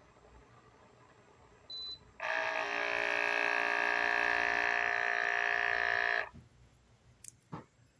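Portable electric espresso maker giving a short beep, then its pump buzzing steadily for about four seconds before cutting off abruptly; two sharp clicks follow near the end.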